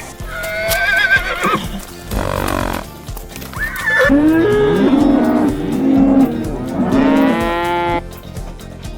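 Cow mooing: a long, low moo with stepping pitch in the second half, after a shorter, higher wavering animal call near the start. Background music with a steady beat runs underneath.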